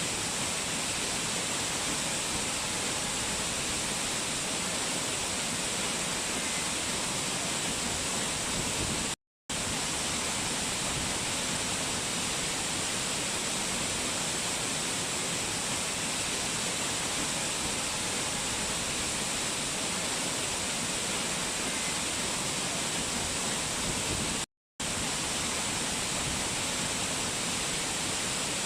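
Steady rushing of mountain water, an even hiss with no breaks in its flow, cut to silence for a split second twice: about nine seconds in and again near twenty-five seconds.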